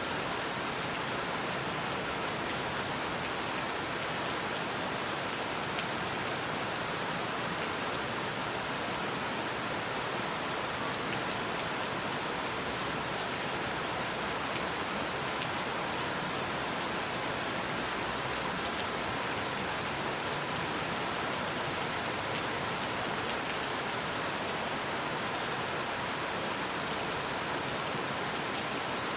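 Steady rain falling, an even hiss with many small drop ticks mixed in, holding at the same level throughout.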